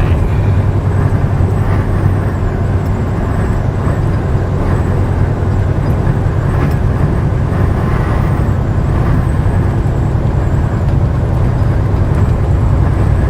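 Semi-truck engine and road noise heard from inside the cab while cruising at highway speed: a steady low drone.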